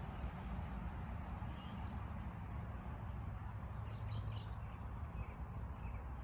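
Small birds chirping faintly: a few short chirps about a second and a half in, a cluster around four seconds in, and a couple more near the end, over a steady low rumble.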